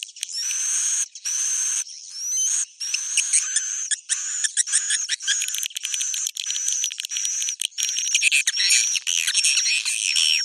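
Swiftlet roosting call (suara inap), the lure sound played in swiftlet houses to get the birds to settle and roost: high chirps and twittering. Short separate bursts with a rising whistled note come first, then a dense, unbroken chatter from about two and a half seconds in.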